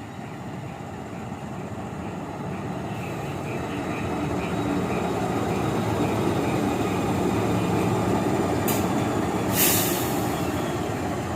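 Diesel locomotive running light and passing slowly, its engine and wheel noise growing steadily louder. Two short hisses come near the end.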